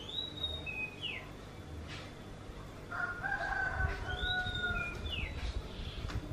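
Oriental magpie-robin calling: two matching high phrases, each ending in short notes that slide down, about four seconds apart. Between them, a longer, lower, drawn-out call lasts about two seconds.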